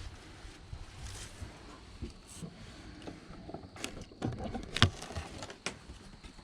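Footsteps crunching and rustling through dry woodland leaves and brush, irregular, with scattered sharp clicks; the loudest comes nearly five seconds in. Crickets keep up a faint steady high chirring behind.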